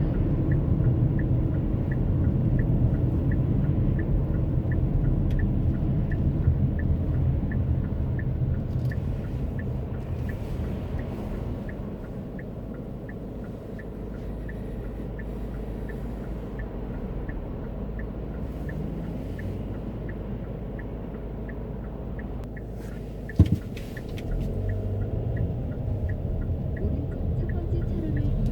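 Low road and engine rumble of a car, heard from inside the cabin, with a light regular ticking for the first dozen seconds. The rumble eases off midway, a single sharp knock comes near the end, then the stronger driving rumble returns.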